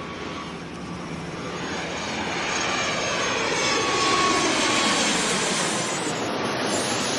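Jet airliner's engines passing by, the noise swelling to a peak about four seconds in and then easing off, with a thin steady whine under it.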